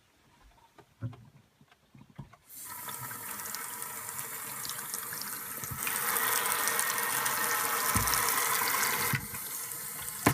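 RV faucet turned on and running into the sink, opened wider about halfway through, eased back, then shut off near the end. The water lines are being filled from the city water hookup and bled of air.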